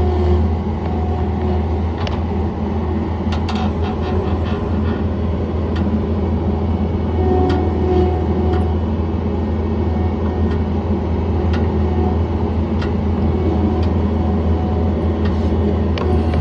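Diesel engine of a John Deere 317 skid steer loader running steadily with a strong low hum, with scattered light clicks and rattles.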